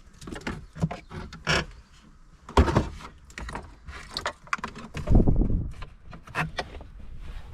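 Irregular knocks, clicks and rattles as a car dashboard is worked loose from its mountings and a retaining clip, with a sharp knock about two and a half seconds in and a heavier thump around five seconds in.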